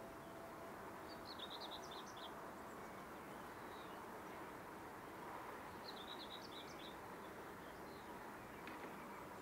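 A songbird singing two short, quick twittering phrases, about a second in and again past the middle, over a steady faint background noise.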